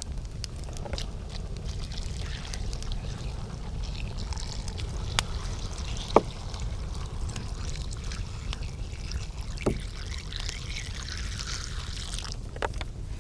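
Wood campfire crackling: scattered sharp pops, the loudest about six seconds in, over a steady low rumble, with a rushing hiss for a couple of seconds near the end.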